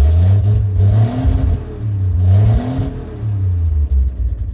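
A large inline-six truck engine, just started from cold, revved twice up toward about 3,000 rpm and let fall back to idle each time.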